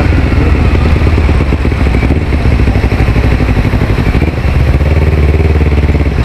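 Motorcycle engine running steadily while the bike is ridden, picked up close by an onboard camera.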